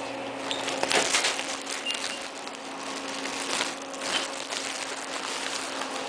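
Scattered rustling and crinkling handling noises, a few short clicks among them, over a steady electrical hum.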